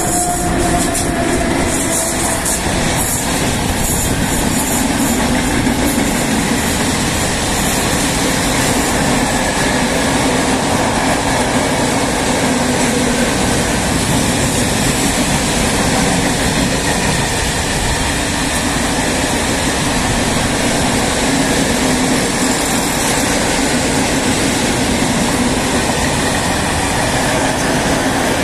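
PKP Cargo ET22 electric freight locomotive passing close by, then a long string of open freight wagons rolling past with a loud, steady rumble of wheels on rail. In the first seconds, as the locomotive goes by, there are a few clicks and a tone dropping in pitch.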